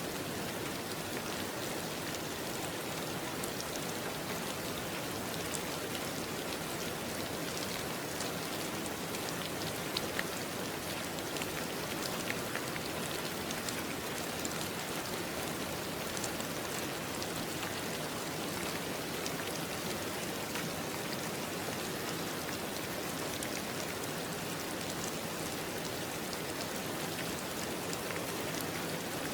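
Steady rain falling, an even wash of rain with scattered individual drop ticks.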